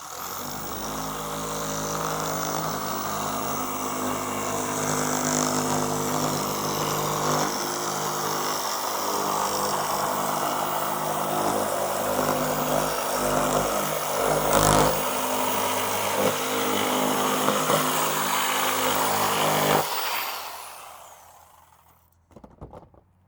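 Electric power tool switched on and running steadily for about twenty seconds, then winding down over a couple of seconds after it is released.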